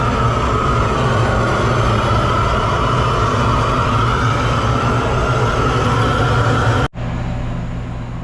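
Steady noise from the kitchen range, a dense rushing sound over a low hum. It drops out suddenly about seven seconds in, then carries on more quietly.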